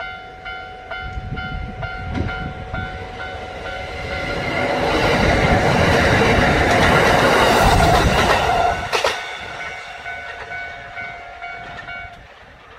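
A train passing close by: a rush of rail noise swells about four seconds in and falls away about nine seconds in. Under it, a repeating ringing tone sounds before and after the pass.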